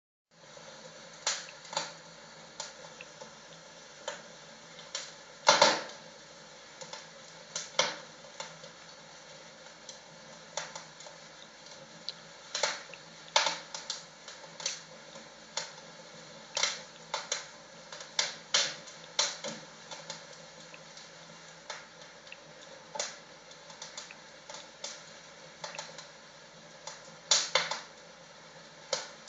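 Crackling fire sound from a virtual fireplace: irregular sharp pops and snaps over a steady faint hiss, with a louder pop about five seconds in and another near the end.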